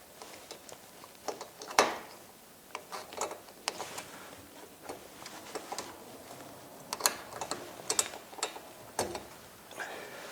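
Irregular metallic clicks and clinks of hand tools working on a garage door opener's chain and pulley assembly, with the sharpest click about two seconds in and a cluster of them later on.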